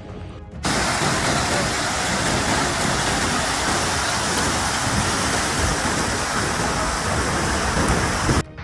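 Heavy rain pouring down, a loud, dense, steady hiss that starts suddenly just under a second in and cuts off suddenly near the end.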